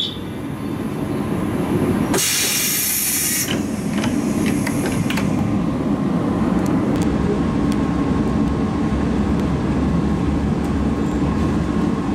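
Local train running on the rails with a steady low rumble of wheels and motors. A short loud hiss sounds about two seconds in, and a few light clicks come later.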